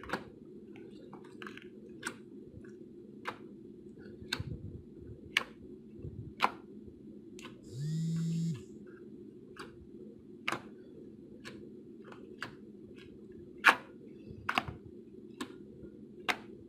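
Slime being squeezed and poked, giving sharp clicking pops roughly once a second, some louder than others, over a steady low background hum. A short low buzz sounds about halfway through.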